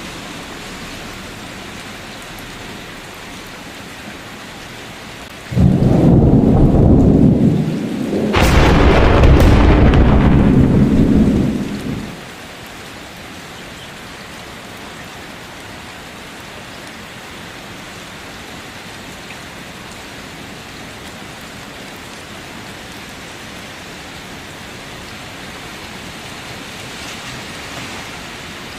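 Steady rain falling with a thunderclap: about six seconds in, a sudden loud low rumble starts, briefly eases, then a sharp crack brings a second rumble that stops about twelve seconds in. The rain continues after it.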